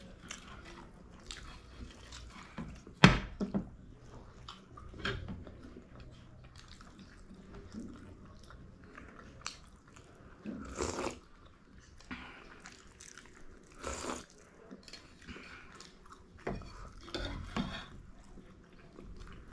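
Close-miked eating sounds: steamed momos being chewed, with wet mouth noises and smacks, and scattered short clicks. A sharp click about three seconds in is the loudest.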